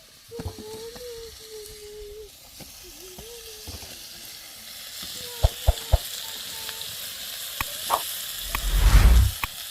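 A sizzling hiss that builds louder, broken by a few sharp clicks and a loud low rumble near the end; a child hums a tune at the start.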